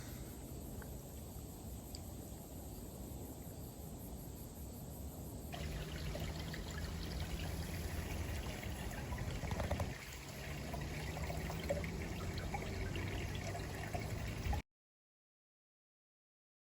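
Faint outdoor ambience with a low, steady trickle of running water. The sound changes abruptly about five seconds in and cuts to dead silence about two seconds before the end.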